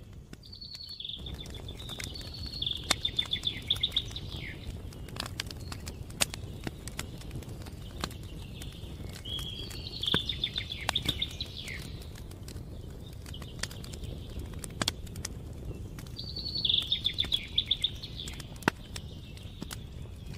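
A songbird singing three times, each a short phrase of rapid notes, over the scattered pops and crackle of a campfire.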